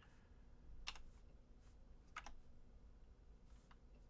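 A few faint, isolated clicks of computer keyboard keys, one at a time about a second apart, against near silence.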